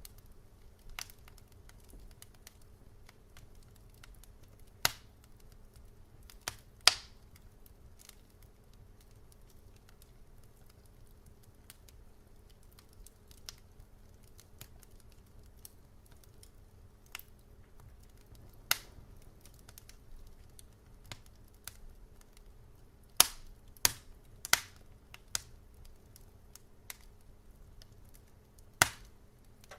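Wood fire crackling: irregular sharp pops and snaps, a few loud ones standing out, over a faint low steady hum.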